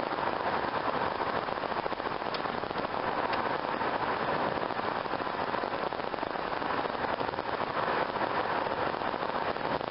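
Steady road and wind noise inside the cabin of a Chrysler minivan driving at speed, an even hiss with no distinct engine note.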